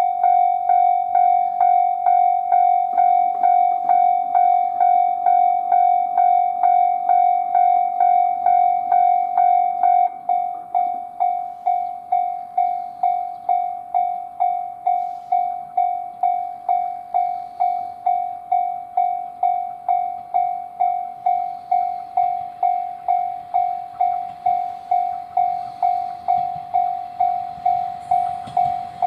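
Japanese railway level-crossing warning bell ringing, about two strikes a second on one steady note. Near the end the noise of an approaching train rises underneath it.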